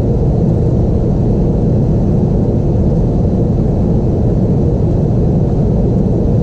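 Steady low rumble inside the cabin of an Airbus A320-232 with its IAE V2500 engines running, heard through the fuselage with a faint steady hum over it.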